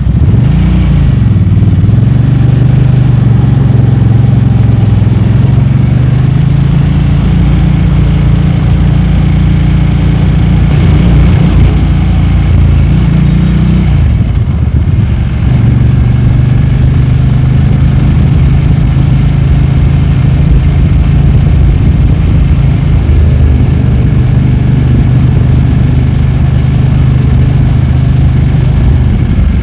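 Motorcycle engine running on the move. Its pitch rises and falls with the throttle, dips about halfway through, then holds steady, over a constant rush of wind and road noise.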